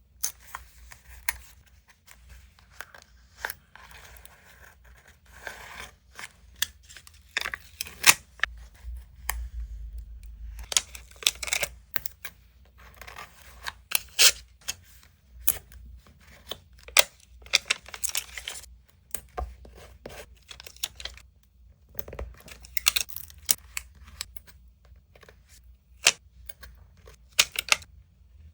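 Paper and stationery being handled for journal collage: paper tearing and rustling in irregular bursts, with many scattered sharp clicks and taps.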